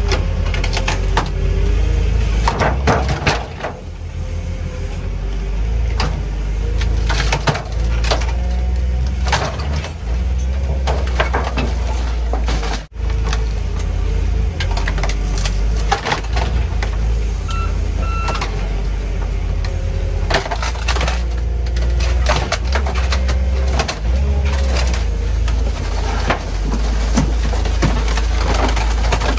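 A heavy machine's engine running under load, with repeated metal bangs, clanks and creaks as a scrap car's engine is torn out of it.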